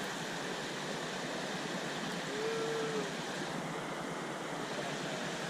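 Steady rush of river water running over rocky shoals. A short, faint tone rises and falls about two and a half seconds in.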